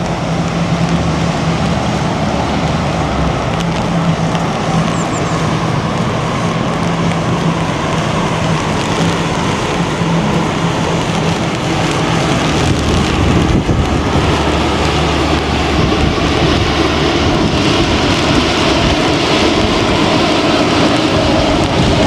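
Steady outdoor rushing of wind and rain, with a low steady hum in the first half; the noise swells slightly in the last third.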